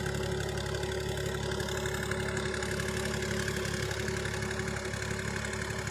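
Universal 533 tractor's diesel engine running steadily at an even speed.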